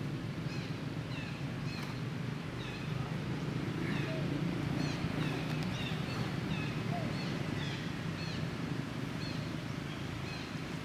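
Small birds chirping over and over in short, quick notes, over a steady low rumble.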